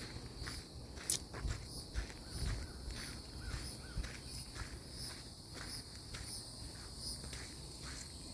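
Chorus of calling insects: high-pitched chirps pulsing about twice a second. Footsteps thump underneath, with a sharp click about a second in.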